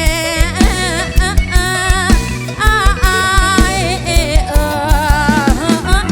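Live band music with a steady drum beat under a wavering, bending lead melody line.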